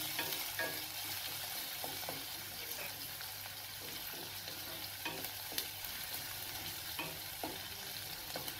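Chopped onion, green chillies, ginger and cumin sizzling in hot oil in a non-stick kadai while a spatula stirs them, with a steady hiss and scattered light scrapes and taps of the spatula against the pan.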